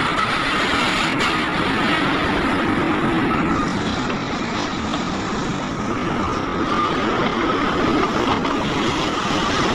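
Heavy diesel earthmoving machinery running steadily at a mine site, a continuous engine drone with no breaks.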